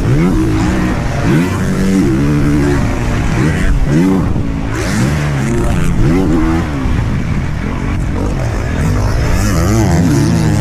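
Motocross dirt bike engine revving hard while being ridden, its pitch climbing and dropping over and over as the rider works the throttle and shifts.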